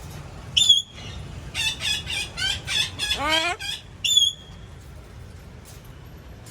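Parrot calls: a sharp high screech about half a second in, then a quick run of about eight chattering calls, one sweeping steeply up in pitch, and a second sharp screech about four seconds in.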